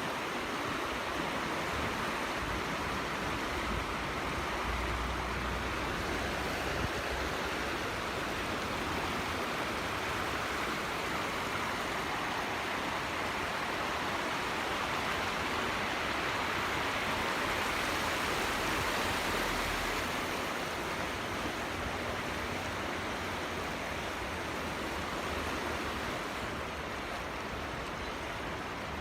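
Water running steadily over a waterfall, an even rushing sound that holds constant throughout.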